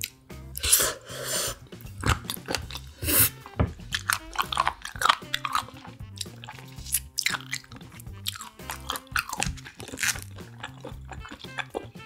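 Close-miked crunchy chewing and biting of seafood, many short wet crunches in quick succession, over soft background music with a steady repeating bass.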